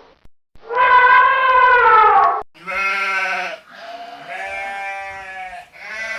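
Farm animal bleating: one long, loud call that drops in pitch at its end, followed by a run of three shorter, lower, wavering bleats.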